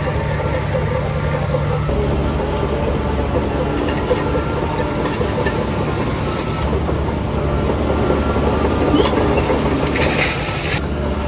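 Heavy diesel engine of a crawler bulldozer running under changing load, its note shifting about two seconds in and again past halfway. A short hiss comes near the end.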